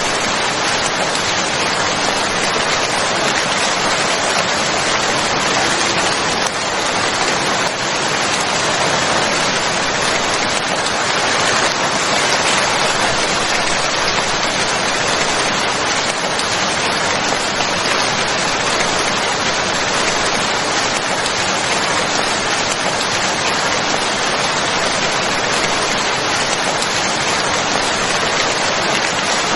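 Steady heavy rain falling, a dense even hiss without let-up.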